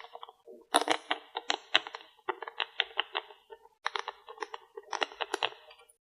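Close-miked tapping and clicking on makeup items in four quick runs, each a rapid patter of small hard clicks. Between the runs the sound drops out abruptly, as noise reduction gates it.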